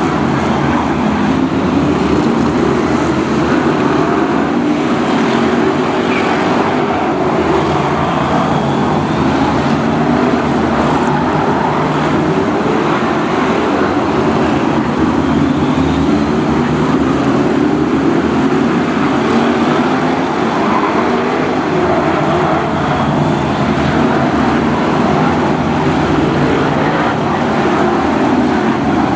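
A pack of BriscA F1 stock cars' V8 engines running hard in a race. Many engine notes overlap, repeatedly rising and falling in pitch as the cars accelerate and lift.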